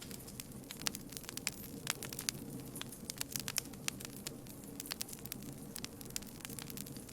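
A wood campfire crackling: irregular sharp pops and snaps, several a second, over a steady low rumble of the burning fire.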